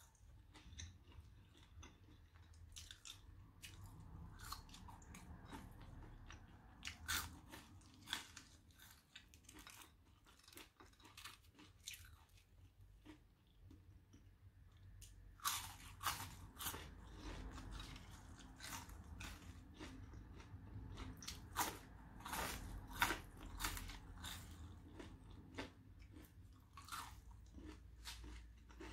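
A person chewing and biting mouthfuls of French fries with curry sauce close to the microphone: irregular wet mouth clicks and crunches, growing denser about halfway through.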